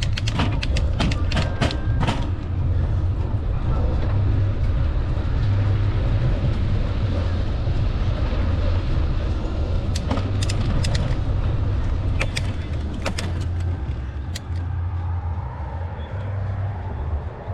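Riding noise on a moving bicycle: a steady low rumble with runs of sharp clicks and rattles in the first couple of seconds and again past the middle.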